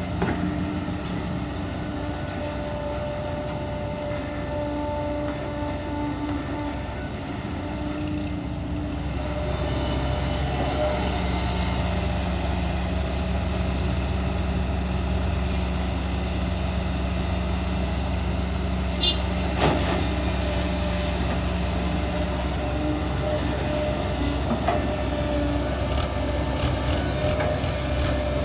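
Kobelco SK140 excavator's diesel engine and hydraulics working steadily while it digs and loads a dump truck, running harder from about ten seconds in. A sharp knock about twenty seconds in.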